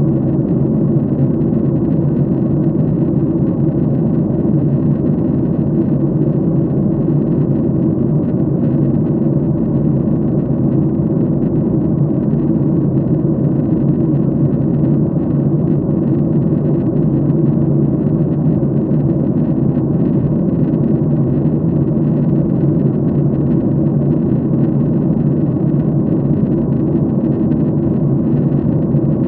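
Steady cabin noise inside an airliner in flight: a constant low rumble of engines and airflow with no changes.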